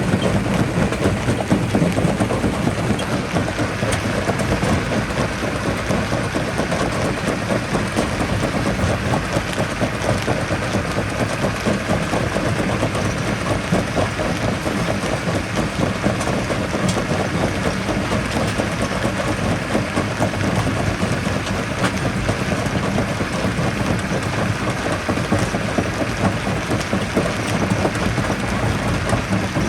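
Primary jaw crusher working under load: a steady, loud mechanical rumble mixed with the continuous crunch and clatter of rock being crushed between the jaws.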